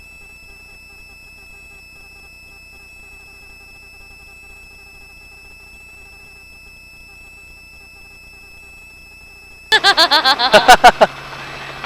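Helicopter in flight: a steady low cabin hum with faint high whining tones. Near the end, a short loud burst of rapid, choppy sounds cuts in.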